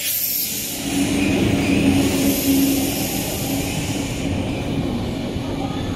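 Electric double-deck regional train rolling in along the platform and slowing to a stop: a steady hum over the rumble of the wheels.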